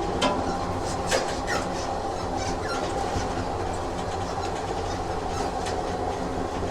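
Train sound effect: a railway carriage running along the track with a steady rumble and a few sharp clicks from the rails, most of them in the first two seconds.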